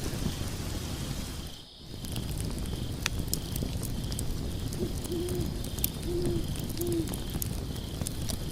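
Log fire crackling with sharp pops over a steady hiss, the sound dropping away briefly a couple of seconds in. About five seconds in, an owl hoots three times in short, low notes.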